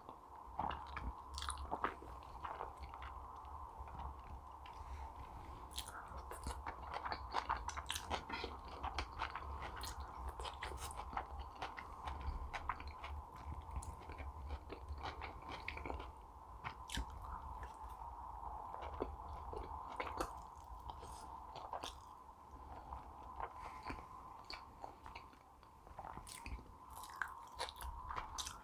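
Close-miked eating sounds: biting and chewing food, with frequent sharp wet mouth clicks, over a steady low hum.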